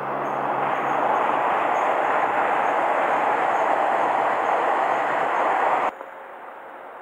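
Train crossing the railway bridge alongside, a steady loud rumble of wheels on rail that swells in at the start and cuts off suddenly about six seconds in.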